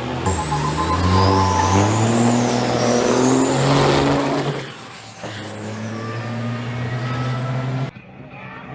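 Semi truck diesel engines at full throttle in a drag race launch, the engine note climbing in steps through gear changes and loudest over the first half, then dropping to a quieter steady drone. The sound cuts off abruptly near the end.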